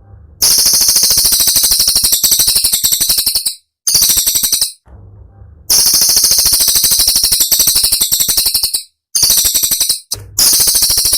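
Cililin songbird singing loud, rapid-fire trills of high, piercing notes, the sharp, close-packed 'tembakan' style. It comes in three bursts of a few seconds each, split by short breaks, and a low hum shows in the breaks.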